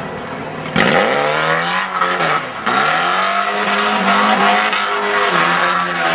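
Car engine revved hard: it jumps to high revs about a second in, drops briefly, then climbs again and is held high.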